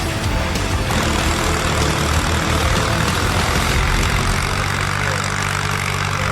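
Tractor engine running steadily with a low, even hum under a broad noisy wash.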